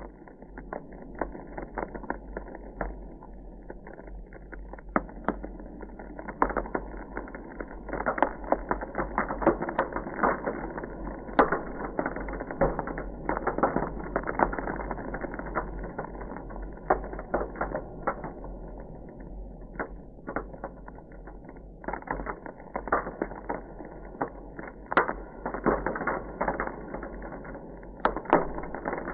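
Ice crackling: a dense, irregular stream of small cracks and pops, with now and then a louder snap standing out, over a faint steady low hum.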